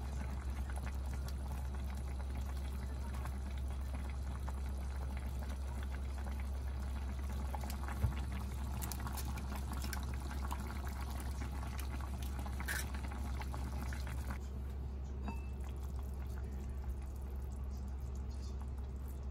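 Soup simmering in an enamelled cast-iron pot: a steady bubbling hiss over a constant low hum. A single sharp tap about eight seconds in as an egg is cracked on the pot.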